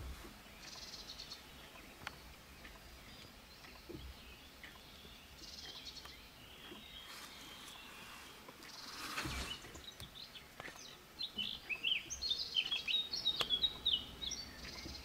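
A songbird singing outdoors: scattered faint chirps, then a quick, louder run of high chirps in the last few seconds. A few faint clicks are heard in between.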